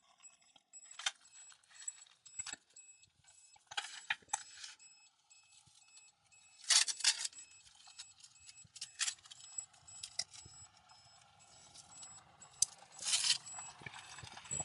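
Tape being peeled up off the cab floor by hand: irregular crackling and rustling in short bursts, the loudest about seven and thirteen seconds in.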